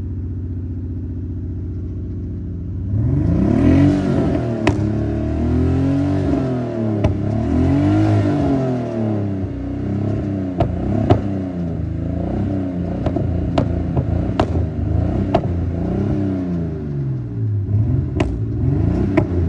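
Nissan Skyline R34's straight-six engine, running again after sitting for eight years. It idles evenly, then from about three seconds in is revved over and over, each rev climbing and falling back within a couple of seconds, with scattered sharp pops.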